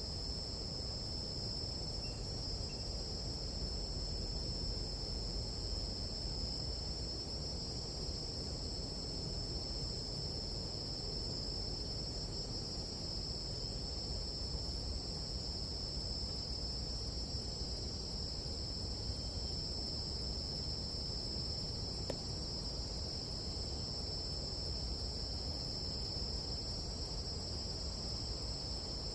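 Steady chorus of night insects in a tropical jungle, an unbroken high-pitched shrill with a second, higher layer above it, over a low, even rumble.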